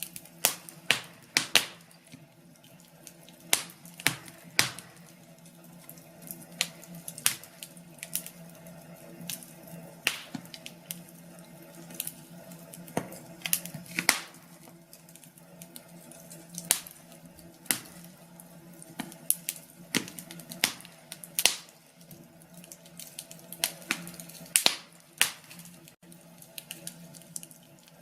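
Wood fire in a fireplace crackling, with irregular sharp pops, several a second, over a faint steady low hum.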